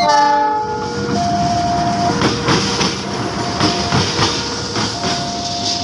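A passing passenger train: the locomotive's horn gives a short blast at the start, then the wheels clatter over the rail joints from about two seconds in. Under it all, a two-tone warning alarm keeps alternating between a higher and a lower note.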